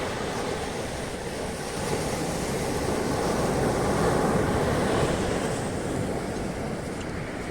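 Ocean surf washing on a beach, a steady rush that swells gently in the middle and eases off again, with wind buffeting the microphone.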